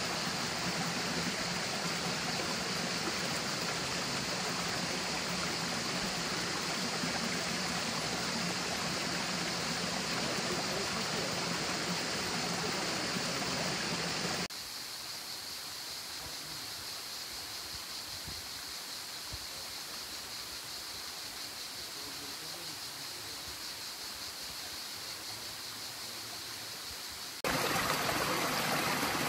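Steady rush of flowing stream water. About halfway through it cuts suddenly to a quieter, thinner rush, and near the end it jumps back to a louder one.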